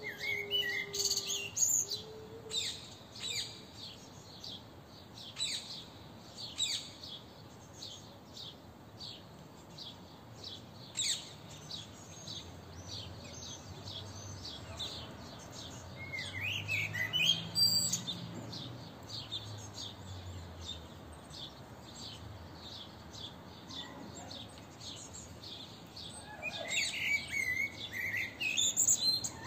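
Wild birds chirping and singing: a steady run of short, high, quick chirps, with warbling song phrases about halfway through and again near the end. A faint low rumble sits under the middle part.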